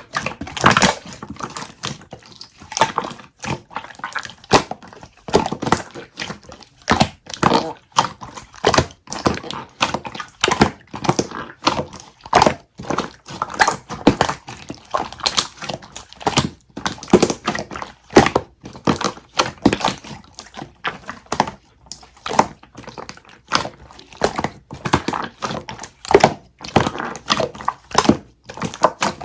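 Irregular sharp crunching and crackling clicks, coming in quick clusters a few times a second.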